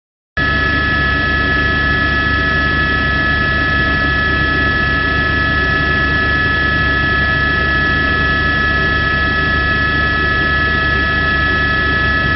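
A steady, unchanging mechanical drone with a low hum and a few constant high whining tones, starting abruptly and cutting off suddenly at the end, like an aircraft engine heard from inside.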